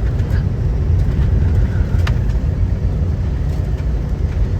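Car cabin road noise while driving: a steady low rumble of tyres and engine, with a few light clicks and knocks, one about two seconds in.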